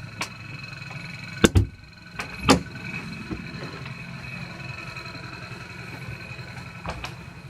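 Steady mechanical hum with a faint high whine, broken by several sharp knocks and thumps, the loudest a pair about a second and a half in and another about a second later.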